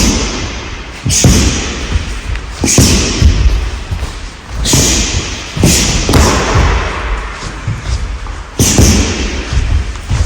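Punches and kicks thudding into rolled-up mats used as striking targets, in irregular single and double hits.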